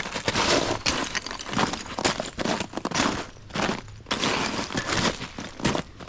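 Broken-up ice crunching and cracking in quick, irregular bursts.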